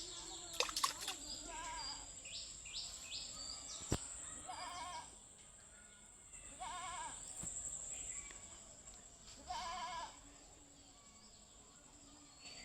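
Livestock bleating: four short, wavering calls about two and a half seconds apart. Under them runs a steady high-pitched drone, with quick repeated chirps in the first few seconds.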